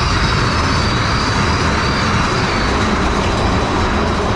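Big Thunder Mountain Railroad mine-train roller coaster rolling along its track, heard from the front seat: a steady rush of track rumble and wind over the microphone, with a faint high steady tone.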